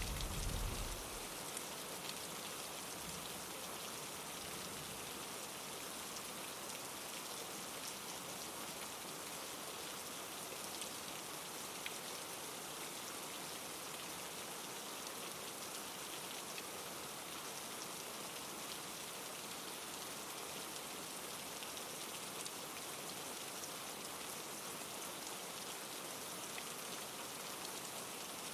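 Steady rain falling, an even hiss. A low thunder rumble dies away about a second in.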